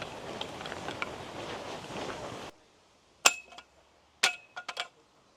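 Steady outdoor noise, then after a cut a quiet spell broken by sharp clinks of hard objects knocked together, each with a short ring: two single clinks a second apart, then three in quick succession.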